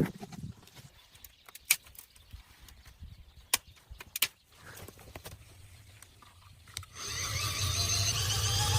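Sparse, light knocks and clicks of wooden logs being handled and laid across a dirt pit. About seven seconds in, a steady humming sound with several held tones comes in and grows louder.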